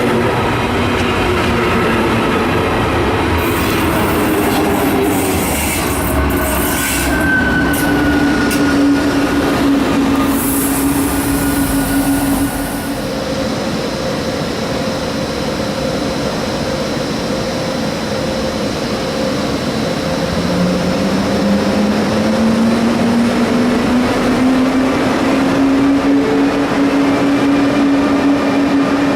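Electric train running past with its traction motors whining: the whine holds a steady pitch, then climbs in pitch from about twenty seconds in as the train gathers speed. Clicks of wheels over the rails come in the first several seconds.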